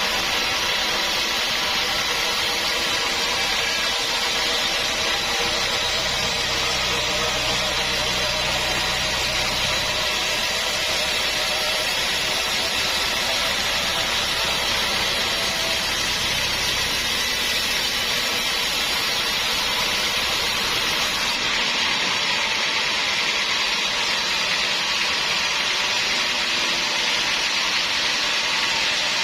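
Sawmill machinery running steadily, a continuous mechanical noise without pauses; its deepest and highest parts thin out about two-thirds of the way through.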